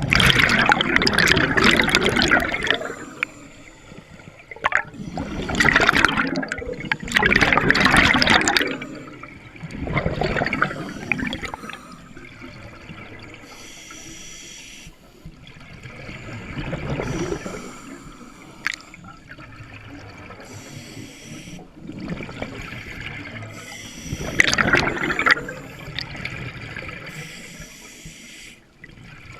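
Scuba diver breathing through a regulator underwater: loud gurgling bursts of exhaled bubbles every few seconds, with fainter hissing between them.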